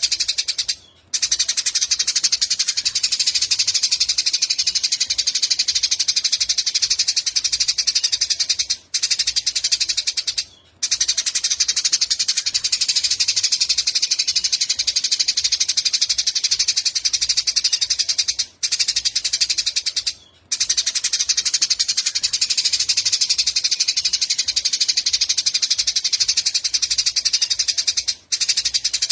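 Eurasian tree sparrows chattering: a dense, very rapid run of high chirps that breaks off briefly a few times.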